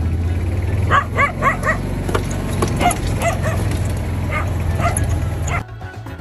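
A dog yipping, a quick run of short high yips, over a steady low hum that stops near the end.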